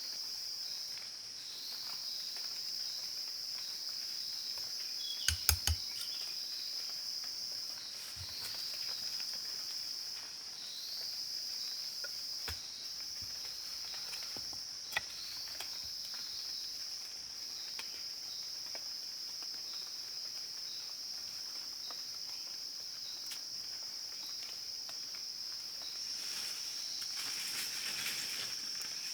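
Steady high-pitched chorus of insects. A few sharp clicks or knocks cut through it, a quick run of three about five seconds in and a single one about fifteen seconds in.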